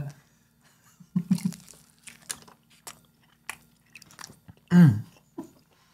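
Close-miked bites into crispy birria tacos and chewing: a string of short, sharp crunches and wet mouth clicks. About five seconds in comes a short, loud voice sound.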